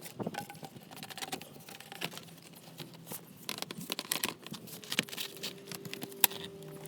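Scattered light clicks, taps and rattles of engine-bay parts being handled and refitted, with one sharper click near the end. A faint steady hum comes in about five seconds in.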